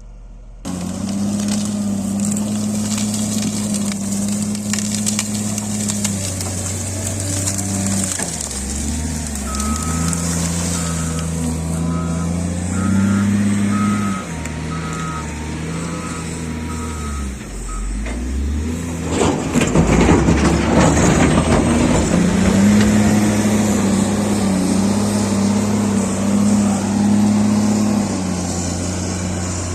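Heavy construction machine's diesel engine running, its pitch rising and falling under load. A reversing alarm beeps steadily for several seconds in the middle, and about two-thirds of the way through comes a loud stretch of rattling and scraping.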